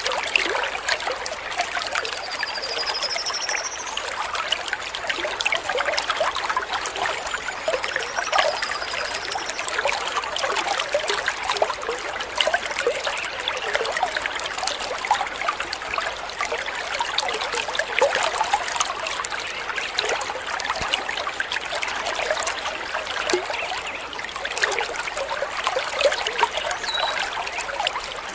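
Small stream of water babbling and trickling steadily. Faint high bird whistles come about two seconds in and again about eight seconds in.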